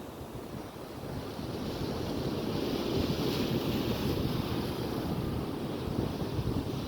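Ocean surf washing onto a beach, with wind buffeting the microphone; the rush of the surf swells up over the first few seconds and then holds steady.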